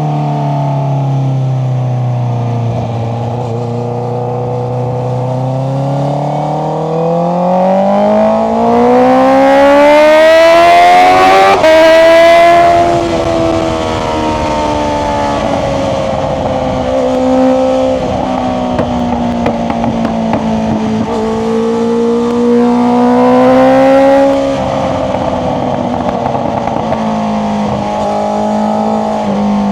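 Honda CBR650R's inline-four through an Akrapovic exhaust, heard on board while riding. It runs steady and low at first, then climbs in pitch for about six seconds as the throttle is opened, breaks off sharply at the peak and eases back. A second, smaller rise comes and falls back later on.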